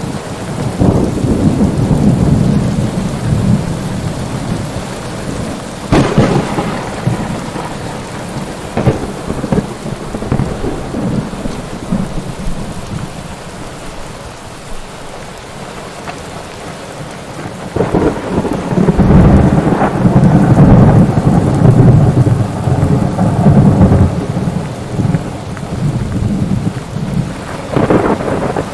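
Steady rain with thunder: long low rumbles that swell and fade, loudest in the first few seconds and again in the middle of the second half, with a sharp crack about six seconds in and another near the end.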